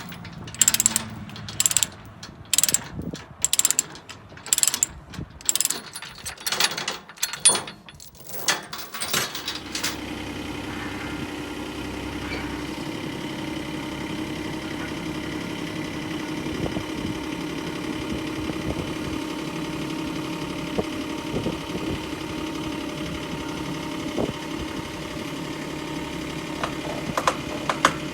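Irregular sharp clicks and knocks for the first nine or ten seconds, then a Kubota tractor's engine running at a steady, even speed, with a few clicks returning near the end.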